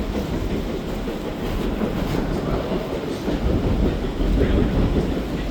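London Underground train on the Piccadilly line running on the track: a steady low rumble of wheels and carriage, growing somewhat louder about four seconds in.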